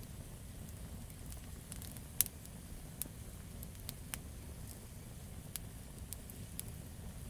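Wood fire crackling: irregular sharp pops and snaps over a steady low rumble of burning, with one louder pop a little after two seconds in.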